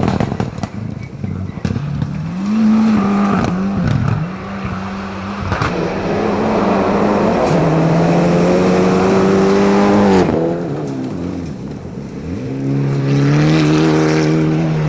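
Rally car engine on a gravel stage, revving hard under acceleration and dropping between gear changes and lifts. The pitch dips twice in the first few seconds, climbs steadily for several seconds, falls away sharply about ten seconds in, then pulls up again, with a few sharp cracks over the engine.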